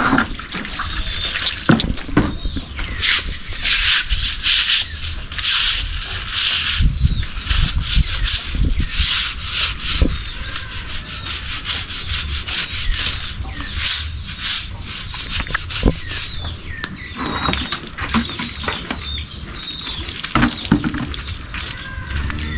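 Repeated rough scraping strokes in quick, irregular runs, thinning out in the last third.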